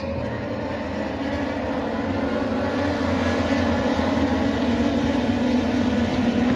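Racing motorcycle engines running together as a steady, many-layered engine note that grows gradually louder as the bikes come closer, before they pass in front.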